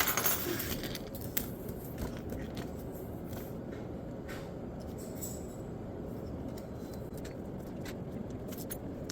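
Faint scattered ticks and scratches of pen and paper as a form is filled out by hand, over a steady room hum.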